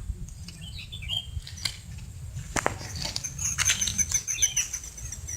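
Small birds chirping: scattered high chirps, then a quick run of repeated thin high notes starting about three seconds in, over a low outdoor rumble with a few clicks.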